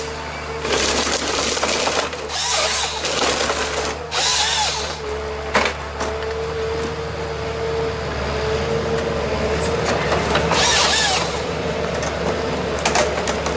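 A machine's motor running steadily, with several short bursts of hissing noise, each about a second long, and a sharp knock about six seconds in.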